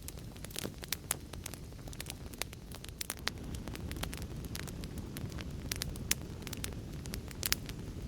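Wood fire crackling: irregular sharp pops and snaps over a steady low roar of flames, the roar growing a little stronger about halfway through.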